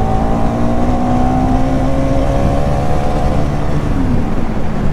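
Bajaj Pulsar NS200 motorcycle engine running at a steady cruise, heard from the saddle, with a low road rumble underneath; its pitch dips slightly as the throttle eases about four seconds in.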